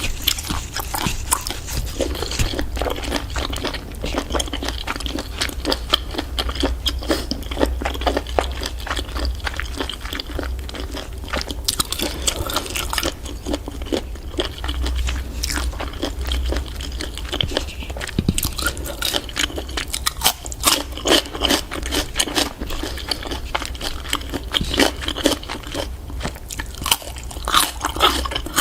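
Close-up chewing and biting of giant octopus: many small clicks and crunches one after another, over a steady low hum.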